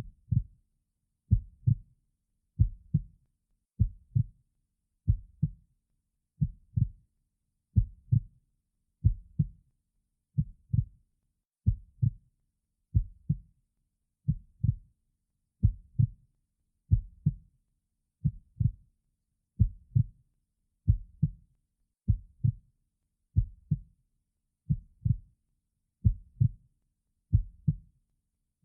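Heartbeat sound: slow, even lub-dub pairs of low thumps, about 44 a minute, with silence between beats.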